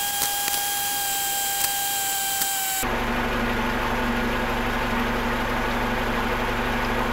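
A steady high whine with overtones over hiss for about three seconds, cutting off suddenly. Then the Camry's 2.5-litre four-cylinder engine idles steadily, heard from under the car, with the transmission in park at operating temperature.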